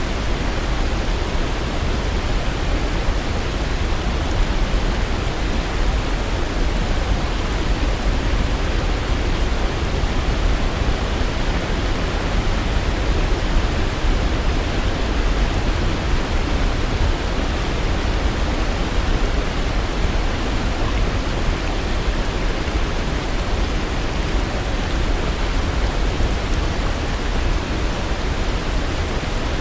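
Waterfall rushing steadily: an even, unbroken roar of falling water, heaviest in the low end.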